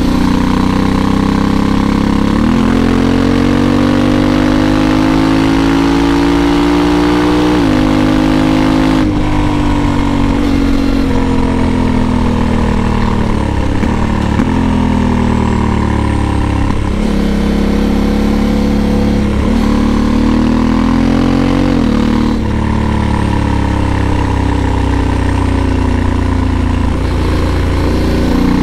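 A Honda Africa Twin 1100's parallel-twin engine being ridden. Its note climbs under acceleration and drops sharply at each gear change, several times over.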